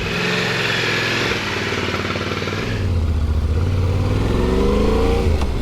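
A couple of seconds of steady hiss, then a Yamaha Ténéré 700 motorcycle's parallel-twin engine accelerating, its pitch rising, with a short break near the end.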